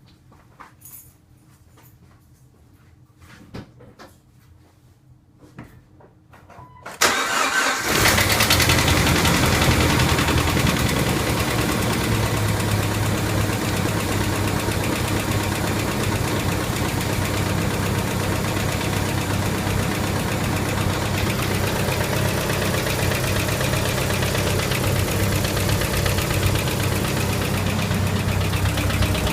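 A few faint clicks, then about seven seconds in a Jeep TJ's 2.5-litre inline-four engine starts and settles into a steady idle with a clacking noise. The clack is still there even though the timing chain, gears, tensioner and chain guide have been replaced, so the timing chain tensioner is not the cause.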